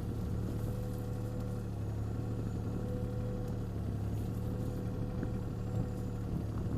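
Mini excavator's diesel engine running steadily, a constant hum with a faint steady whine above it.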